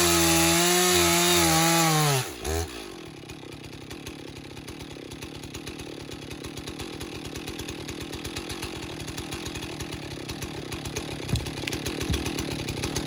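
Stihl MS460 two-stroke chainsaw running at full throttle, then the throttle is released about two seconds in and the engine note drops quickly to a lower, fast-ticking idle that carries on.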